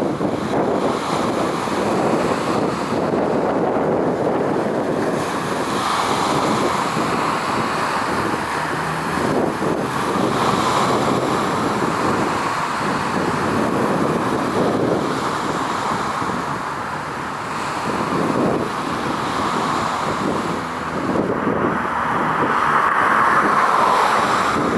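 Wind buffeting the microphone: a steady rushing noise that swells and eases, a little louder near the end, with no engine or horn tone standing out.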